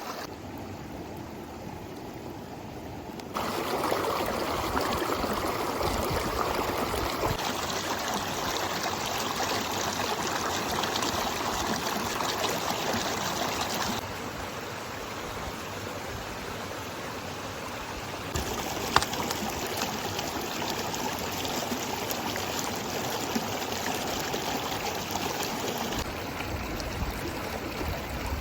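River water flowing and trickling, with the sound shifting abruptly in level several times. There is one sharp click about two-thirds of the way through.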